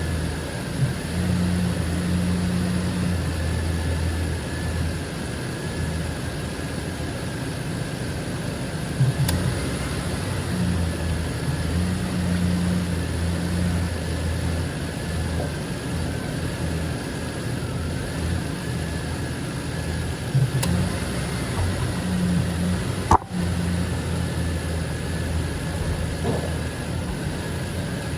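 Ford Ranger pickup engine idling steadily with the heater on, run to burp air out of the freshly filled cooling system. A faint wavering whine sits over the engine's rumble, and one sharp click comes near the end.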